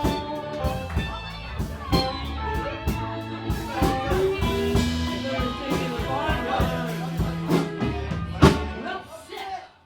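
Live band music: electric guitar, bass and drum kit playing a blues-rock tune. It ends with one loud final hit about eight and a half seconds in, and the music then dies away.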